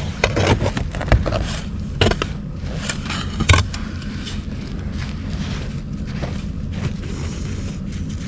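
A shovel scraping and chopping into packed snow and ice around a stuck truck's tire: several sharp scrapes and knocks in the first half, over a steady low engine hum.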